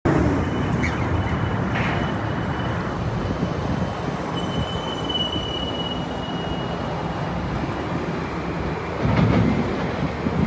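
Excavator working: a steady engine and machinery rumble, with a high squeal about halfway through and a louder stretch near the end.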